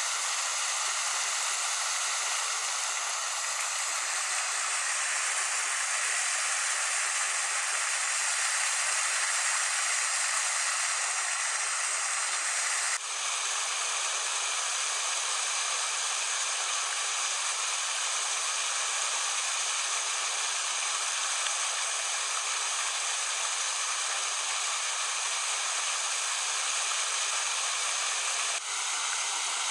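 Steady rushing noise like running or falling water, unbroken except for two abrupt breaks, about halfway through and near the end.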